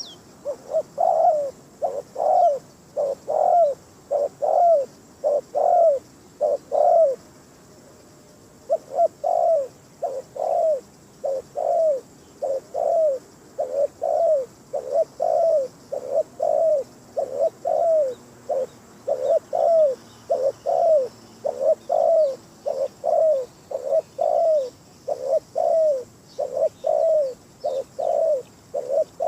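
Spotted dove cooing: a long run of repeated short coo phrases, the decoy call used to draw wild doves in, with a brief pause about eight seconds in.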